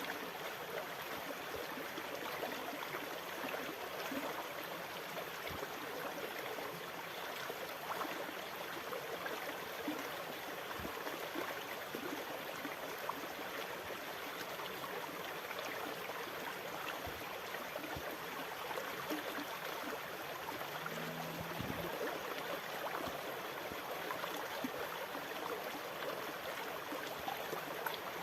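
Sea water washing and trickling steadily, an even, continuous rush without any distinct rise and fall of breaking waves.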